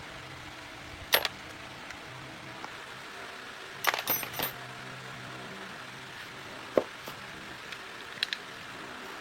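Small metal objects clinking and clattering during motorcycle repair work: one sharp clink about a second in, a quick cluster of clinks around the middle, then a few more near the end, over a steady background hiss.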